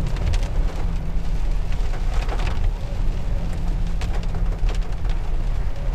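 Heavy rain pattering on a moving vehicle, scattered drops ticking, over the steady low rumble of the engine and road.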